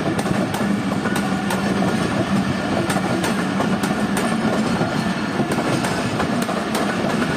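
Passenger train coaches rolling past at speed: a steady rumble of steel wheels on rail with regular clickety-clack as the wheels cross the rail joints.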